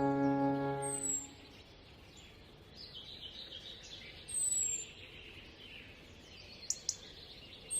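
Background music ends about a second in, leaving faint outdoor ambience. A bird gives short, high, falling chirps every few seconds, with a brief louder rustle in the middle and two sharp clicks near the end.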